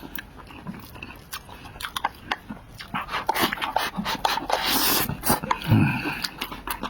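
Close-miked mouth sounds of a person eating: many small wet clicks of chewing and lip smacking, with a short hum near the end.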